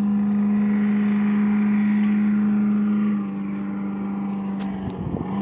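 An engine running at a steady speed, a constant-pitch drone that drops in level about three seconds in, with a few sharp clicks near the end.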